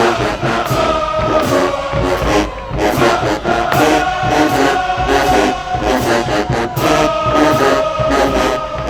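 HBCU marching band playing, with its brass holding sustained chords over a steady, driving drum-line beat.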